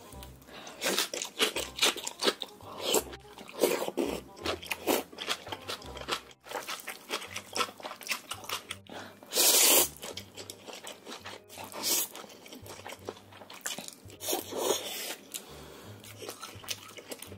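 Close-miked eating: crisp, repeated crunching and chewing of kimchi in many short bites, with one loud noodle slurp lasting under a second about halfway through.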